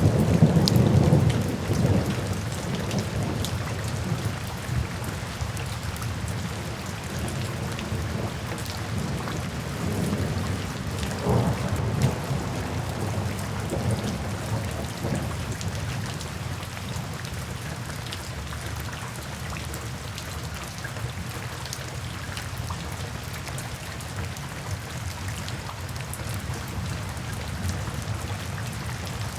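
Steady rain falling, with low rolling thunder at the start that dies away over the first few seconds, and another, weaker rumble of thunder about eleven seconds in.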